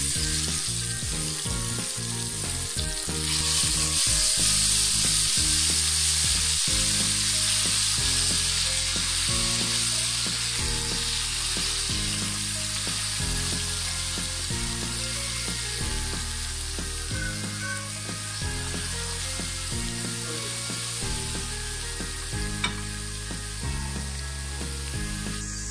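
Ginger-garlic paste sizzling and frying in hot oil, stirred with a wooden spatula; the sizzle swells about three seconds in and stays strong.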